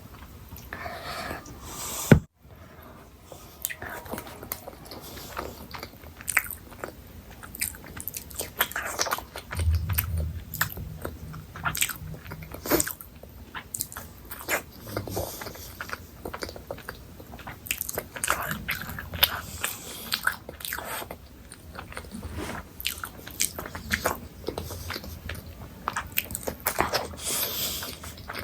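Close-miked eating: chewing and biting with many short sharp smacks and crunchy clicks, and one loud click about two seconds in.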